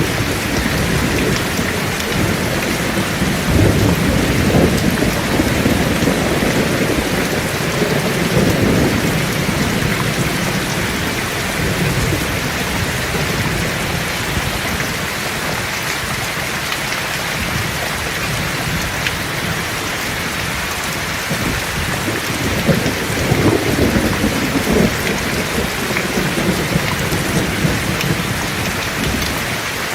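Heavy rain falling steadily, with rolling thunder rumbling low twice, once early on and again past the middle.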